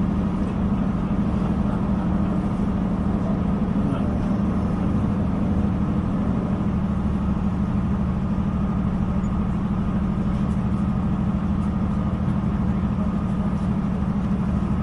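Steady low drone inside a diesel passenger train carriage: engine and running noise, unchanging throughout.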